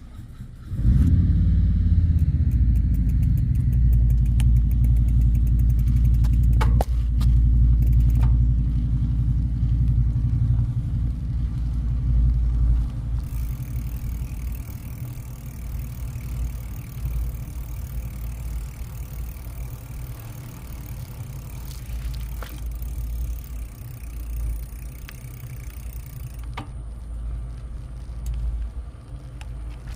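Low, unpitched rumble of wind buffeting the microphone while cycling. It starts suddenly about a second in, is loudest for the first dozen seconds, then eases to a steadier, lower rumble.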